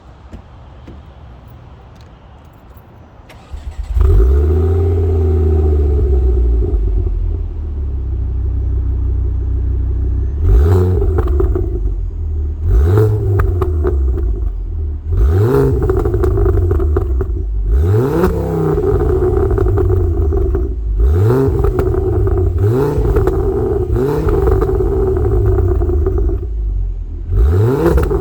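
Ford Focus ST's turbocharged 2.5-litre five-cylinder engine, through a full decat turbo-back exhaust with a Mongoose back box, fires up about four seconds in and runs loudly. From about ten seconds in it is blipped up and let fall back about seven times, every two to three seconds.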